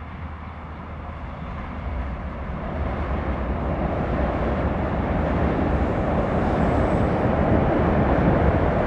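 Regional express train of red double-deck coaches rolling across a steel girder railway bridge, a steady rumble of wheels on the bridge that grows louder over the first few seconds as the train comes on.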